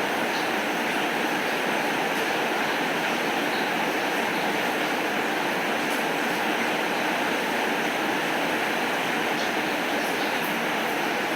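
Steady heavy rain: an even, unbroken hiss of falling water, with a few faint ticks over it.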